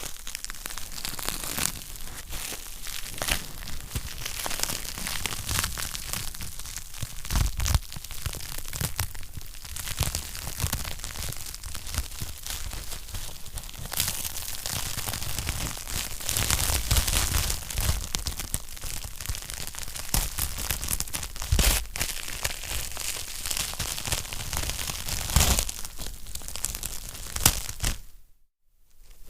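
Wood fire crackling in a fireplace: dense, irregular crackles with a few louder pops. It cuts out briefly near the end.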